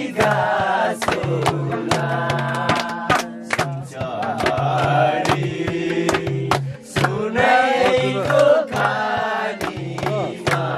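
A group of voices singing a Nepali folk song together, repeating its short lines, over a steady beat of sharp percussive hits.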